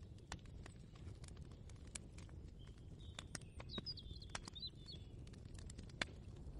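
Quiet layered ambience: a low rumble under scattered irregular clicks and knocks, with a brief high twittering bird call about halfway through.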